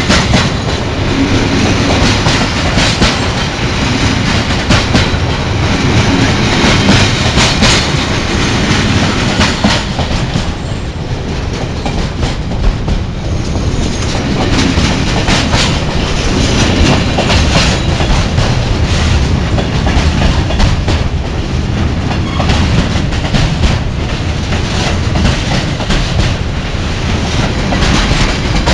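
Train running along the rails close by, a steady loud rumble with the wheels clacking repeatedly over rail joints.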